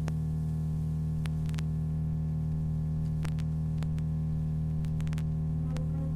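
A steady low drone made of several held low tones, with a scattering of sharp clicks over it.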